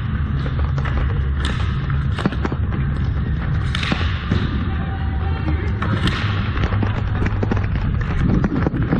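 Ball hockey play: many sharp clacks and knocks of sticks and ball striking on the playing surface, over a continuous low rumble.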